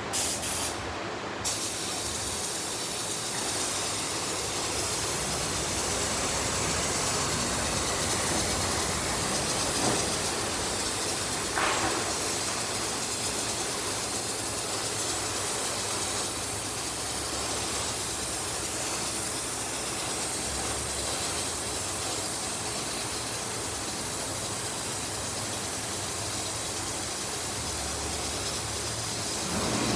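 Air spray gun hissing steadily while spraying white gel coat, with a short break-in of the sound a second or so in and a change just at the end as the spraying stops.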